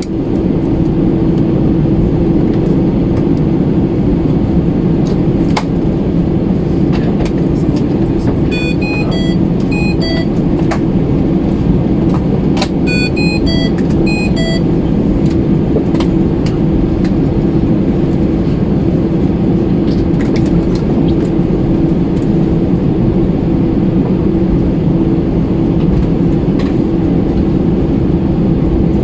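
Steady cabin noise inside an Airbus A320, a low rumble of engines and air conditioning with a constant hum. About nine and thirteen seconds in come two short runs of high electronic beeping tones, with a few faint clicks scattered through.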